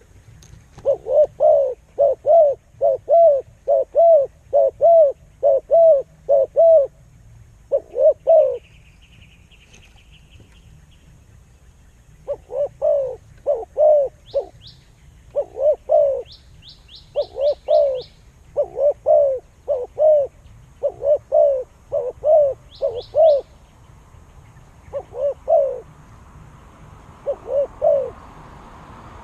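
A bird calling in runs of short, arched notes, about two a second, that break off for a few seconds near the middle. A buzzy trill and a few thin, higher chirps from other birds come in between the runs.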